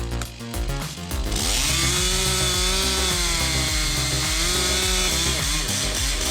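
Chainsaw revving up about a second in, then running steadily while cutting wood, its pitch dipping and recovering under load. Background music with a steady beat plays throughout.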